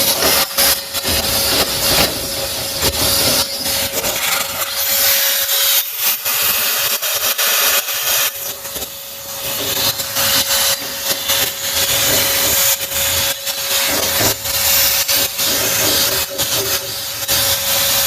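Vacuum cleaner with a long hose running steadily, with a constant whine. Irregular knocks and scraping come from the nozzle bumping and rubbing inside a furnace as it is cleaned.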